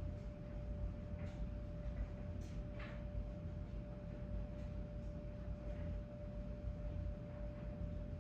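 Sears Galaxy table fan coasting down after being switched off: a faint low whir from the slowing motor and blades, with a steady faint hum and a few light ticks.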